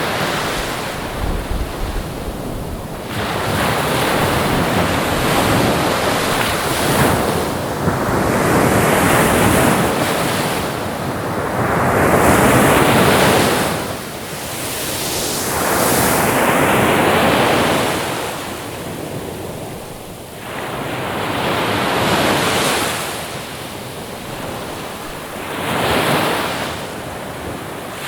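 Ocean waves breaking and washing in, the surf surging and ebbing about every four seconds.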